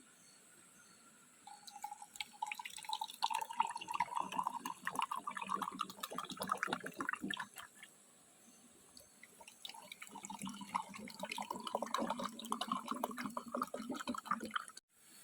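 Liquid being poured into a container twice, the gurgle rising in pitch as the container fills. A short thump comes right at the end.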